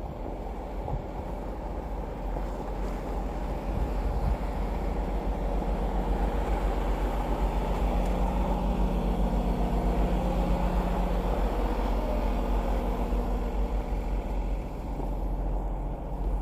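A motor vehicle passing close by: its engine and road noise swell over several seconds to a peak about ten seconds in, with a steady engine hum and a gliding pitch, then fade away.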